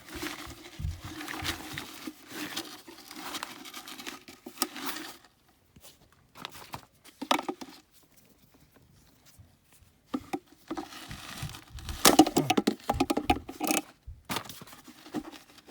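Scraping, clicking and rattling as a seized induced-draft blower motor on a gas furnace is worked by hand to break it loose. The noise comes in two busy spells with a near-quiet gap of a few seconds between, the second spell the loudest.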